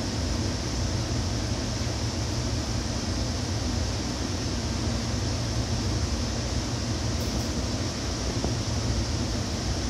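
Running noise of a Seibu 2000 series electric train heard from inside the passenger car: a steady, even rumble of wheels on rail and running gear with no change in speed.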